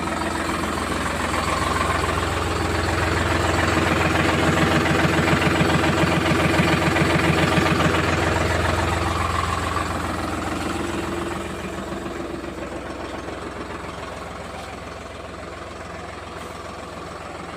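Tractor engine running at idle with a fast, even pulsing beat. It grows louder over the first several seconds, then fades to a lower level about eleven seconds in.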